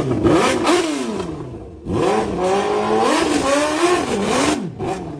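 Superbike engine in a custom golf cart, revving: its pitch climbs and falls back once, drops away briefly near the middle, then rises again and wavers through several quick rises and falls before dying down near the end.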